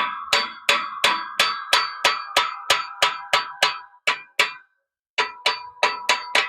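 Hand hammer striking steel U-joint and yoke parts, about three ringing metal blows a second, with a short break about four and a half seconds in, tapping the parts into line.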